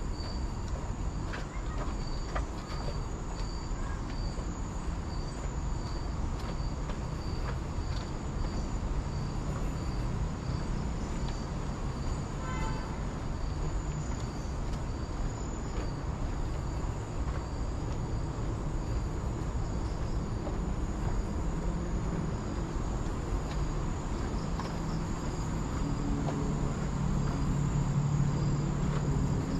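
Insects in tropical forest: a steady high drone with a short chirp repeating about one and a half times a second. Under it runs a low rumble that grows louder near the end.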